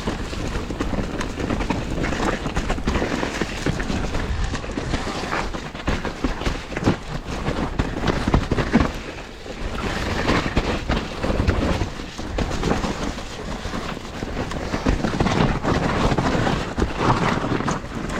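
Mountain bike being ridden over a wet, muddy trail: tyres churning through mud and the bike rattling and knocking over bumps.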